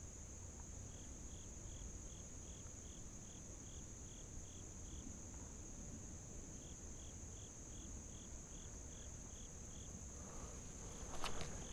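Steady high insect drone with a rhythmic chirping over it, about four chirps a second in two runs. A few knocks and rustles come near the end.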